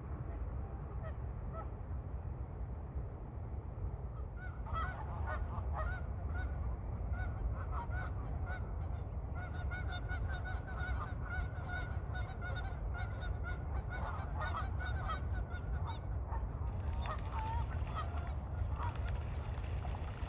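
A flock of geese honking, many overlapping calls that start about four seconds in and thin out near the end, over a steady low rumble.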